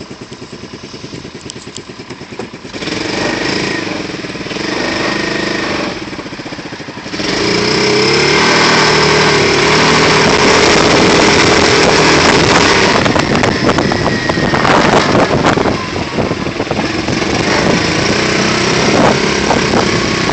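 Kandi Viper's 250cc single-cylinder engine running with an even putter, then revving up sharply about seven seconds in as the car pulls away through its CVT. It keeps running loud and steady while driving.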